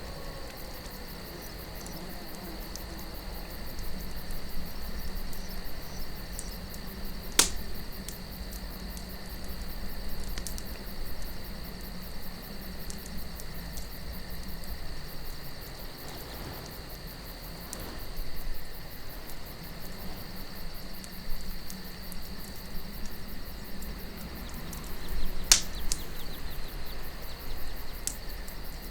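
Wood campfire crackling, with two sharp loud pops about seven seconds in and near the end, over a low wind and a steady high chirring of crickets.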